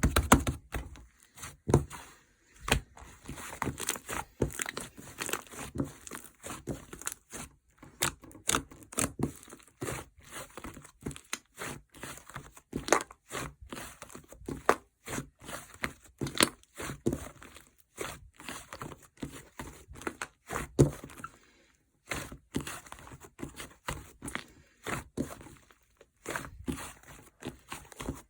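White clay slime being squeezed and pressed by hand, making rapid, irregular sticky clicks and crackles, with a brief pause about three quarters of the way through.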